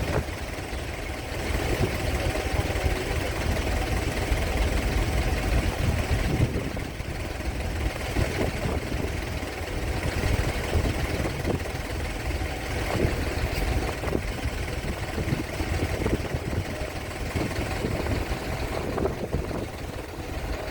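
Heavy engine idling steadily with a deep, continuous rumble.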